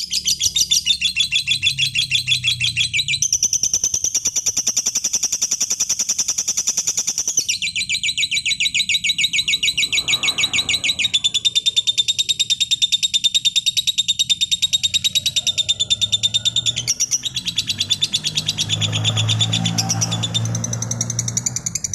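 Lovebird singing one long, fast chattering trill without a break, its pitch shifting every few seconds.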